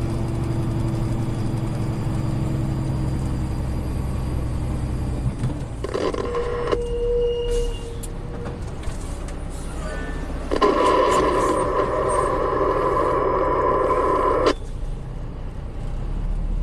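Road vehicle running, heard through a dash camera, with a steady low hum that cuts off about five seconds in. A loud, steady sound follows from a little past ten seconds in for about four seconds and stops abruptly.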